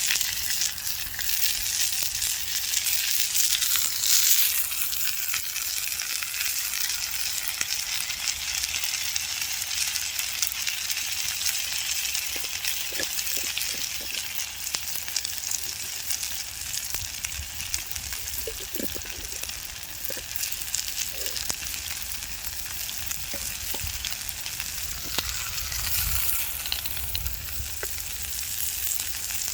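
A big steak frying in a pan, a steady sizzle with a few small pops.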